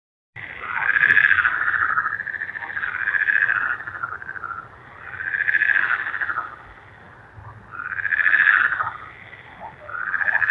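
Repeated animal calls. Each is a rapidly pulsed call about a second long that rises and then falls in pitch, and they come about every two seconds, five times in all.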